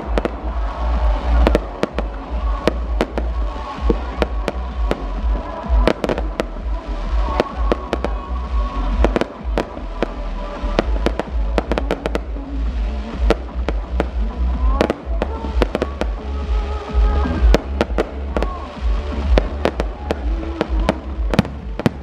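Aerial fireworks display: shells bursting in a quick, irregular string of sharp bangs over a continuous deep booming.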